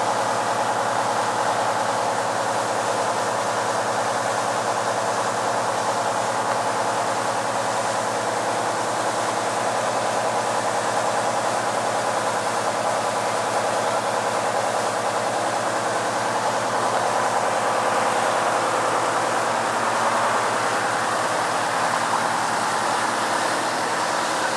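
Water gushing steadily from a fire hydrant that a car has knocked open, a loud, even rushing that does not change.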